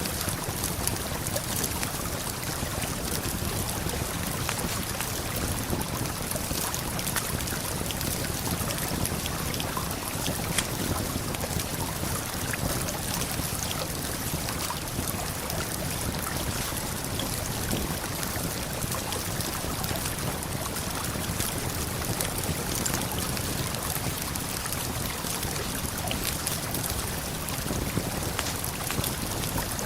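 Steady rush of a waterfall and flowing river, with scattered small crackles and pops from a campfire on top.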